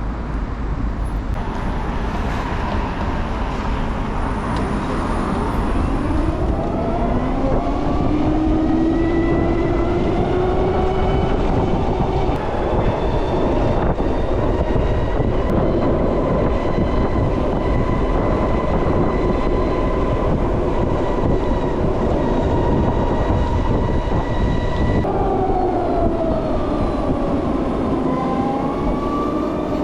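LiveWire electric motorcycle's motor whining over wind and road noise. The whine rises in pitch as the bike speeds up, holds steady while cruising, then falls away as it slows near the end.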